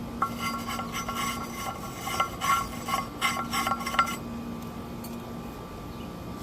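Light metallic clinking and tapping, about a dozen small strikes over four seconds with a faint ringing, from a tool and metal parts handled while anti-seize is applied to the wheel hub.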